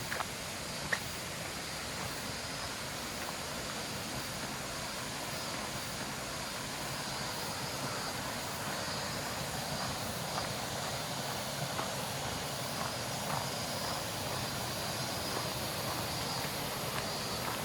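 Steady rushing of a mountain stream, an even hiss that grows slightly louder, with a couple of faint clicks about a second in.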